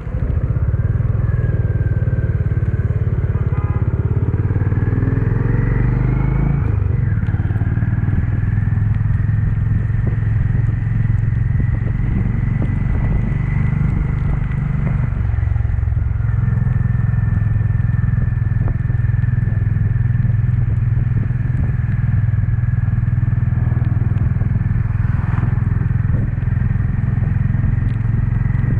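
Honda CB350 motorcycle engine running steadily while riding, with the engine note shifting about six and a half seconds in.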